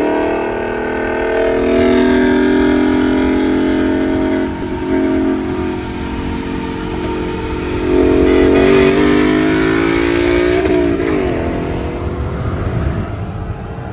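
Ford Mustang GT's 5.0-litre V8 running alongside at a low, steady pitch, blipped up and down in revs about eight to eleven seconds in.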